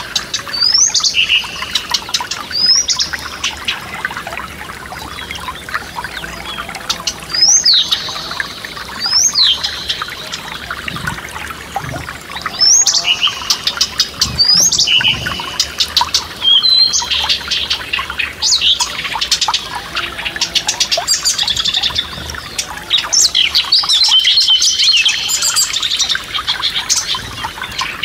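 Songbirds calling and singing over the steady rush of a forest stream. Sweeping whistled notes repeat every couple of seconds at first, and the chirping grows busier in the second half.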